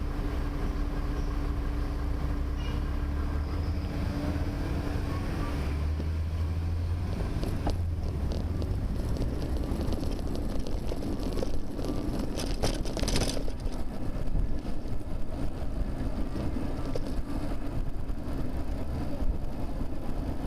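Road traffic heard from a rear-facing camera on a bicycle: a motor vehicle's engine hum with a steady tone, which ends about six seconds in. It is followed by road and wind noise with scattered rattling clicks.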